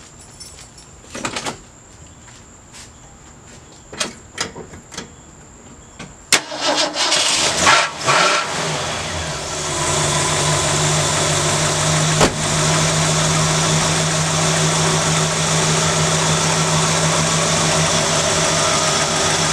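A few light knocks and clicks, then about six seconds in the 1967 Ford Galaxie's carbureted 289 V8 cranks briefly and fires on a cold start. It runs unevenly for a couple of seconds, then settles into a steady idle.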